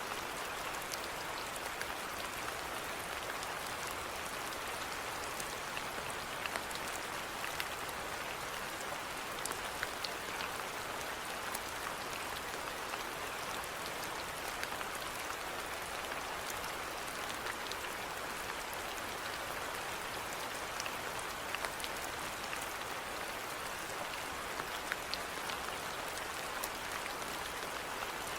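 Steady rainfall with scattered individual drops ticking on surfaces.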